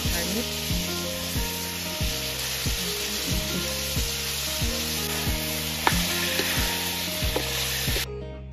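Duck meat sizzling hard as it fries in a wok, stirred with a wooden spatula. The sizzle cuts off suddenly near the end. Background music with a steady beat runs underneath.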